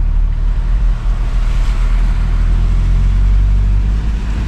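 A 4x4 driving, heard from inside the cab: a steady low engine and drivetrain rumble. A rushing hiss swells in the middle and eases near the end.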